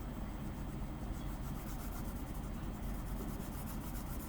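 Apsara dark pencil shading on drawing paper: quick, repeated back-and-forth strokes of graphite scratching steadily.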